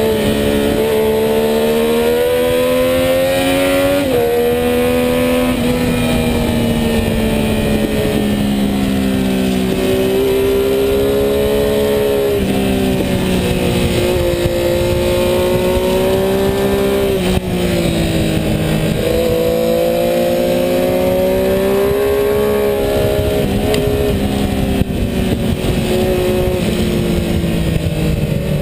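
Sport motorcycle engine at racing speed, heard from onboard: its pitch climbs and drops several times as it is shifted through the gears and eased off for corners, over a steady rush of wind noise.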